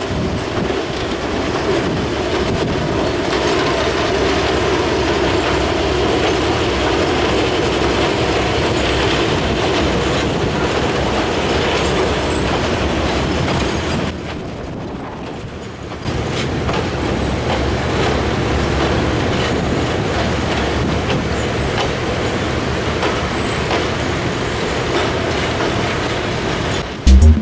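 Two DJ class diesel-electric locomotives and their passenger carriages rolling slowly across a steel truss viaduct. The engines rumble and the wheels clack over the rail joints steadily. The sound drops briefly about halfway, as the locomotives give way to the carriages, and music cuts in at the very end.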